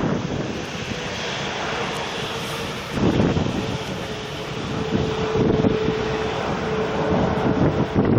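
Aircraft engines running with a steady whining tone over a loud rush, with gusts of wind buffeting the microphone.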